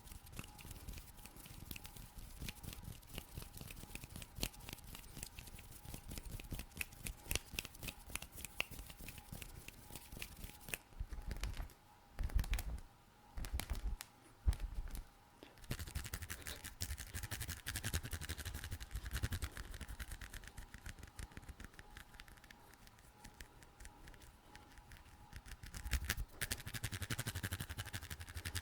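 Close-miked ASMR hand sounds: fast, dense tapping and scratching clicks for about the first eleven seconds, a few heavy low thumps with short pauses around the middle, then steadier rubbing and scratching.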